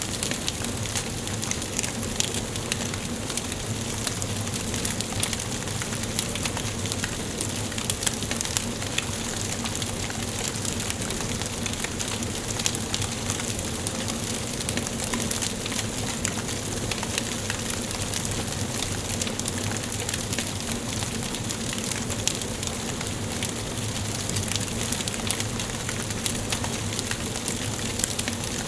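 Wood fire burning in a fireplace: a steady hiss of burning logs with many small, sharp crackles and pops scattered throughout.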